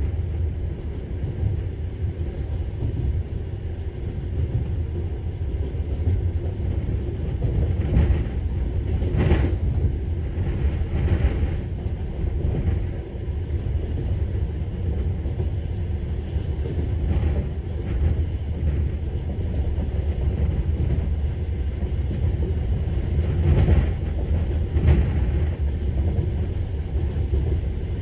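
Passenger train coaches rolling along the track, a steady low rumble broken by a few scattered knocks as the wheels cross rail joints and points.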